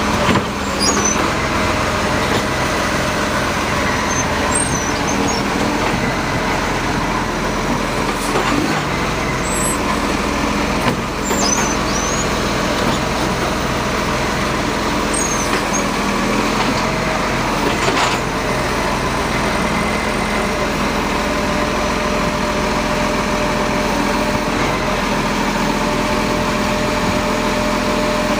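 Garbage truck running steadily, with a few short knocks now and then.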